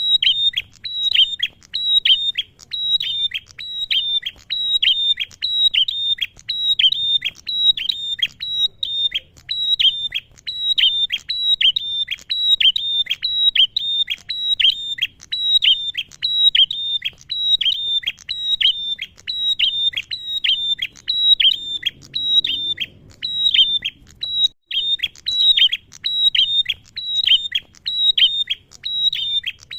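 A male bar-winged prinia (prenjak) calling in a long unbroken series of sharp, high notes that drop in pitch, a few notes a second.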